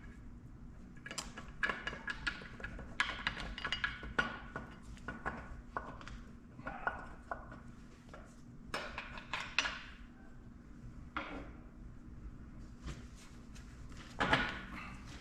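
Hand tools and steel engine parts clinking and clanking as they are handled during the teardown of a diesel engine, irregular metal knocks with short ringing, and a louder clatter about 14 seconds in.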